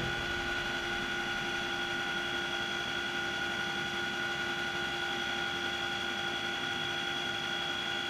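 Steady turbine engine whine from an AH-64 Apache: several constant high tones over an even rushing hiss.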